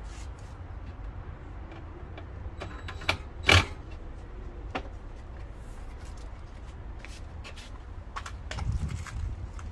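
Interior wall panels being handled and fitted inside a van: scattered clicks and knocks, the loudest a sharp knock about three and a half seconds in and a few more close together near the end, over a steady low rumble.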